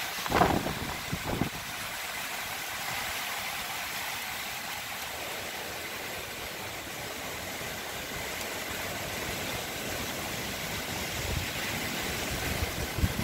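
Strong wind rushing steadily through trees in a sudden windstorm, with a couple of gusts buffeting the microphone in the first second or so.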